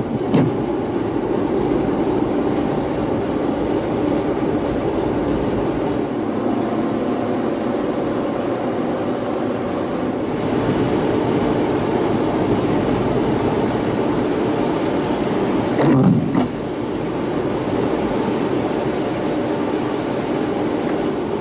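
Jeep Wrangler being driven, heard as steady engine and road noise. Two short, louder sounds stand out, one right at the start and a stronger one about 16 seconds in.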